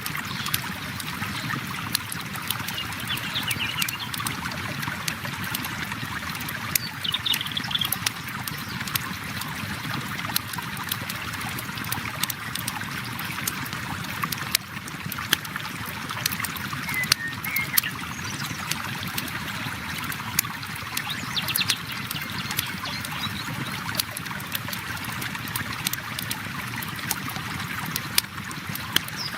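River water flowing and trickling steadily, mixed with the sharp pops and crackles of a campfire. A few short high chirps come and go.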